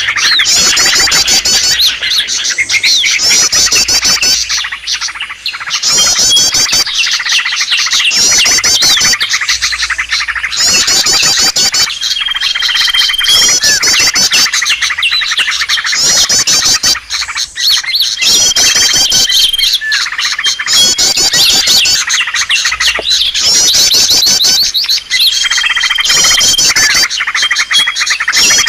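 Bird-lure recording of many small songbirds calling at once: dense, continuous chirping with short high trills repeating about every second, and a drawn-out whistle that keeps coming back in the second half.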